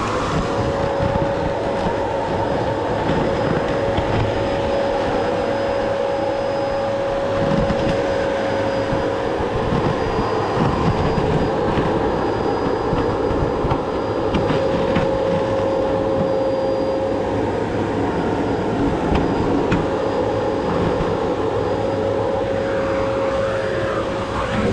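Vacuum cleaner running steadily, its motor giving a constant whine over a rushing noise, with a few light knocks and scrapes as the stove's inside is cleaned.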